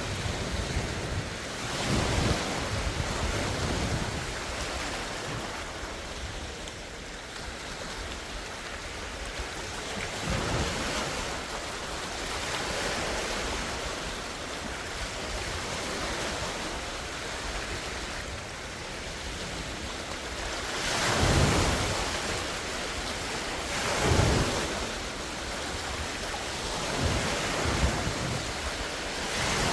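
Large wind-driven lake waves breaking and splashing on the shore, in surges every few seconds, the loudest about two-thirds of the way through. Gusts of wind rumble on the phone's microphone.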